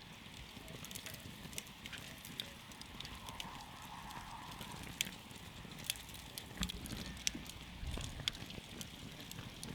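Wood campfire crackling, with frequent sharp pops and snaps over the low, steady rumble of the burning fire. A few louder pops come in the second half.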